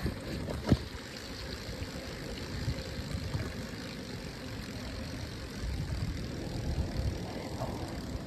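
Wind rumbling on a phone microphone while cycling in the rain, with a single sharp click a little under a second in.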